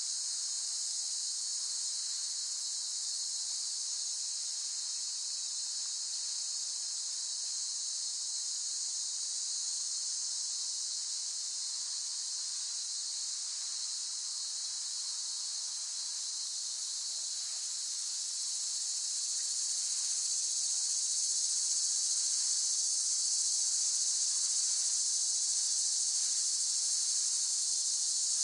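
Cicadas calling in a steady chorus, a dense high-pitched buzzing drone that grows a little louder about two-thirds of the way through.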